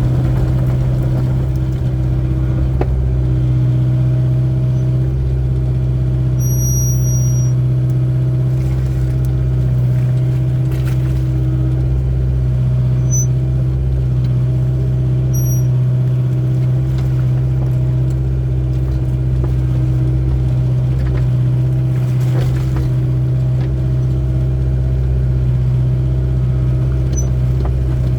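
Excavator's diesel engine running steadily with a constant low hum, with a few brief, faint high-pitched squeaks now and then.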